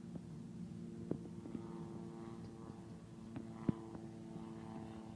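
Distant drone of a seaplane's propeller engine, steady with several pitched tones that bend slightly up and down, as the plane flies away. A few sharp knocks sound over it, the loudest a little past halfway.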